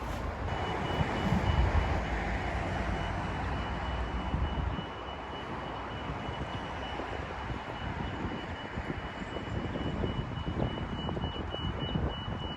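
A train running at a station: a broad rumble that eases about five seconds in, with a steady high-pitched tone sounding alongside it that breaks into short beeps near the end.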